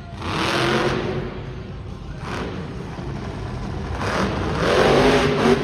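Monster truck engine revving hard in two surges: a short burst right at the start that falls away, then a longer rev building from about four seconds in.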